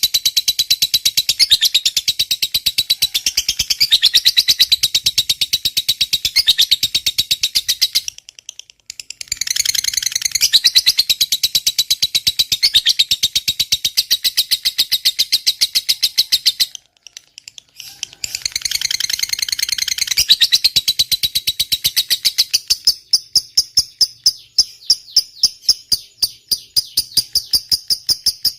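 Lovebird giving its long 'ngekek' chatter: a loud, shrill, very rapid run of repeated chirps, broken twice by short pauses and slowing to separate chirps near the end. This long unbroken chatter is the song that lovebird fanciers prize in a bird in full song.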